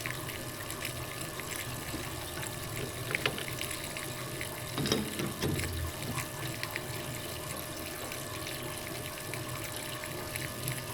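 Metal-cutting lathe running with coolant flowing steadily over the cut, under a steady machine hum with scattered small ticks. A brief low rumble about five seconds in.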